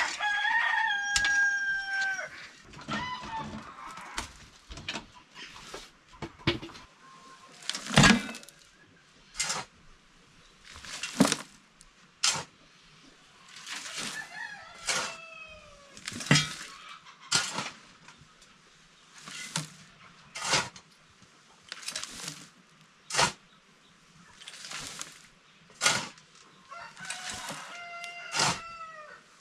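A rooster crowing: one long call in the first two seconds and another near the end. In between come short sharp calls or clicks about every second or two, some with a brief falling tail.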